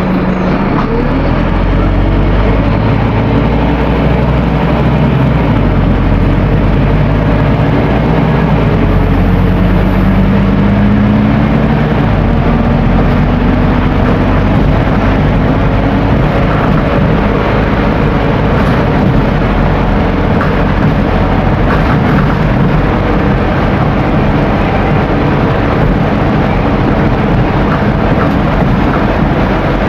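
Scania N270UD OmniDekka double-decker bus under way, its diesel engine rising in pitch as it accelerates over the first twelve seconds or so, then running steadily with continuous road noise.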